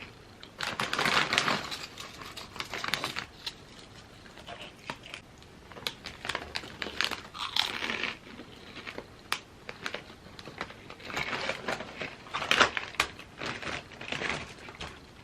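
Crinkling and crunching in several short, irregular bursts with scattered clicks between: a chip bag being handled and chips being bitten and chewed.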